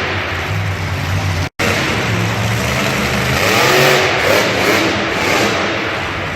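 Loud vehicle engine revving up and down at a motor show. The sound drops out for an instant about one and a half seconds in.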